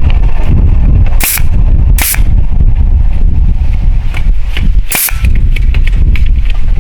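A few sharp knocks of a tool striking bamboo, irregularly spaced, over a loud low rumble.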